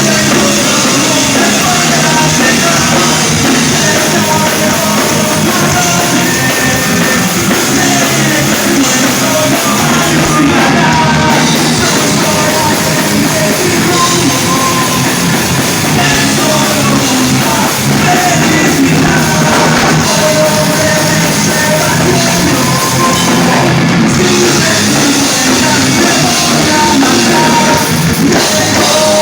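Live rock band playing loud, with drums, guitars and a sung, partly shouted vocal over them.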